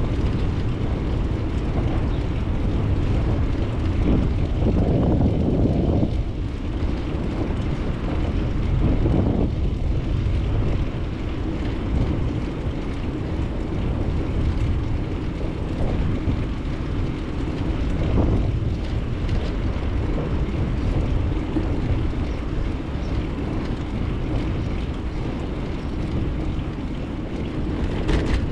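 A bicycle riding along, heard through a GoPro's microphone: a steady low rumble of wind on the microphone and the bike rolling, which swells briefly a few times.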